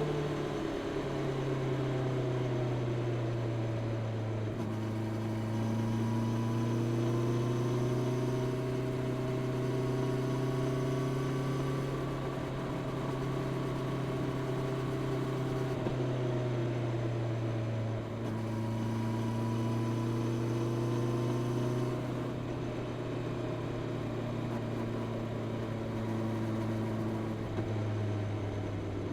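Honda CB650R's inline-four engine with its stock exhaust, running at a steady cruise. The engine note drops about a second in, then rises and falls gently with the throttle and eases lower near the end.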